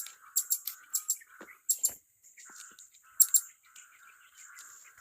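Blue-crowned hanging parrots (serindit) calling: short, shrill, very high-pitched notes in quick clusters, over a softer buzzy note that repeats about every half second.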